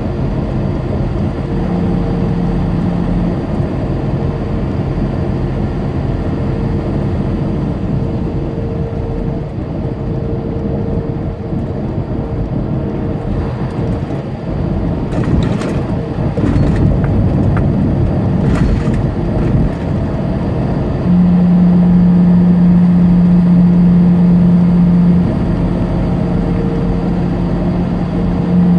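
Tractor-trailer's diesel engine running with road rumble inside the cab, a steady drone that steps up in loudness about two-thirds of the way through. A few short clicks sound near the middle.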